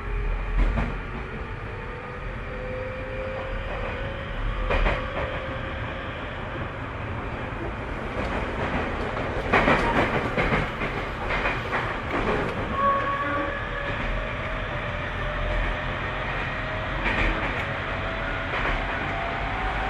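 Tobu 30000 series electric train running, heard from inside the car: a steady rumble with the traction motors' whine slowly rising in pitch as the train gains speed. Wheels knock over rail joints now and then, several times in quick succession about ten seconds in.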